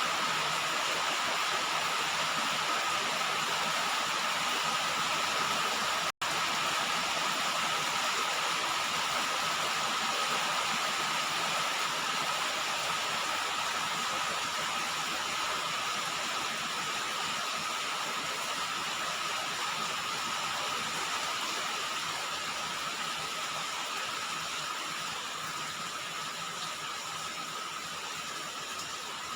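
Steady rain falling on a roof, an even hiss of drops, briefly cutting out for an instant about six seconds in and easing slightly near the end.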